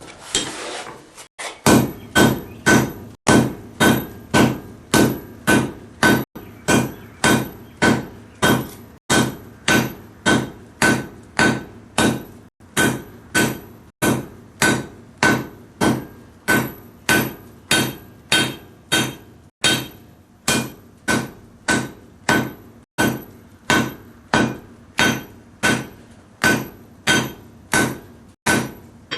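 Blacksmith's hammer striking a titanium knife blank on an anvil in a steady forging rhythm, about one and a half blows a second, each blow ringing clearly. The hammering starts about a second and a half in.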